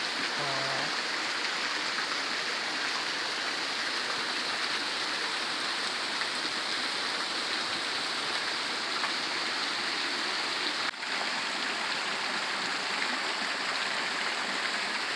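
Steady rush of a hot-spring waterfall pouring down onto rocks and water, with a brief dip about eleven seconds in.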